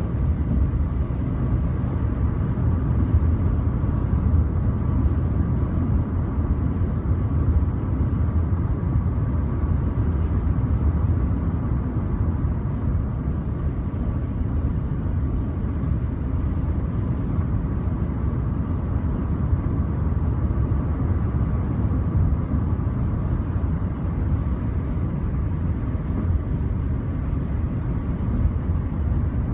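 Steady low road and engine rumble of a car driving at speed, heard from inside the cabin, with a faint steady whine.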